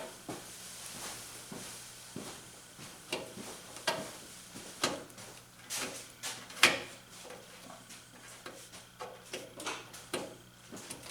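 Irregular light knocks, clicks and scraping of hand tools being worked on a car body, with one sharper knock past the middle.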